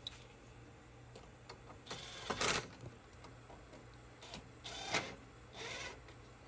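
Three short bursts of clattering and rustling from parts and tools being handled during the bumper install, the loudest about two seconds in, over a low steady hum.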